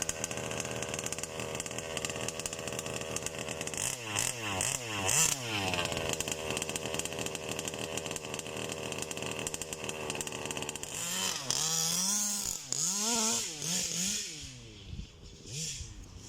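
The Zenoah G320 two-stroke petrol engine of a 1/5-scale Rovan Baja RC car with a big-bore expansion exhaust, revving up and down as it is driven. From about two-thirds of the way in, the revs swing up and down quickly, and the sound fades for a moment near the end.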